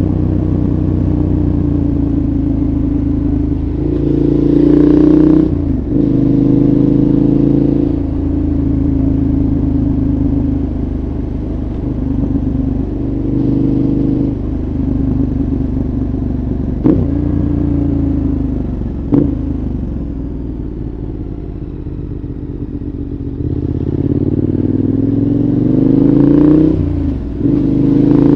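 2014 KTM 1190 Adventure's V-twin engine, breathing through a Giannelli exhaust with dB killer, heard onboard while riding. It revs up about four seconds in and cuts off sharply at a gearshift, then runs at lower revs with two sharp clicks in the middle, and revs up again near the end, broken by quick gearshifts.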